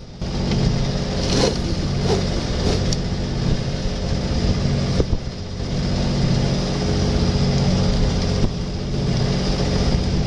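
Boat engine running steadily with a low, even hum, and a few light knocks in the first few seconds.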